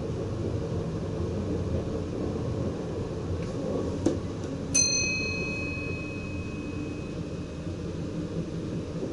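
Steady running rumble inside the cab of a VIRM double-deck electric train. About five seconds in, a single bell-like ping rings out and fades over about three seconds.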